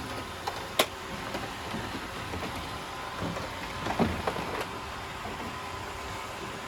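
Several robot vacuum cleaners running on a deck, a steady motor whir with a sharp click about a second in and a few soft knocks around the middle as they pick up spilled rice.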